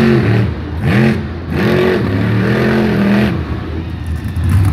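Monster truck engine revving: about three quick rises and falls in pitch, each a second or less, between steadier running.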